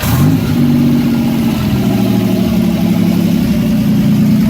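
Turbocharged 3400 V6 in a Pontiac Fiero idling. Its pitch rises quickly just at the start, then holds steady at a higher speed. The engine has started smoking at idle, which the owner thinks could be the piston rings still breaking in.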